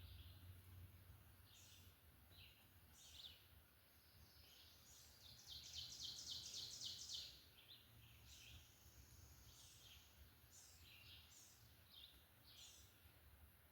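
Faint songbirds calling in spring woods: short high chirps repeated throughout, with a louder rapid trill of evenly spaced notes lasting about two seconds near the middle.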